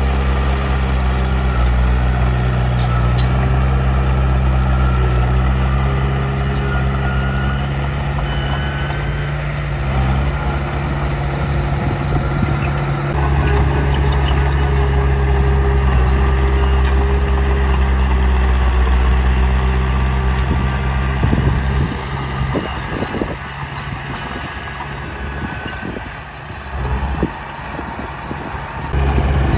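Heavy diesel earthmoving machine's engine running steadily under load. It eases off for several seconds about two-thirds through, with a few knocks, then picks up again near the end.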